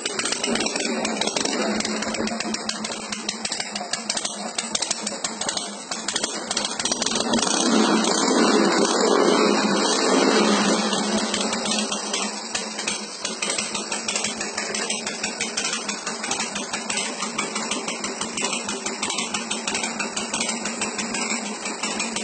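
Harley-Davidson 1200 cc V-twin running through an aftermarket exhaust, idling, then revved up for a few seconds about eight seconds in before dropping back to idle.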